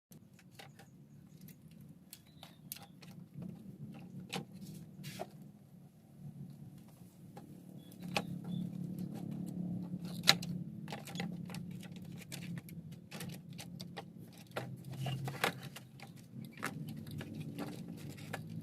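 Irregular small clicks and taps, like tools and small parts being handled, over a low steady hum.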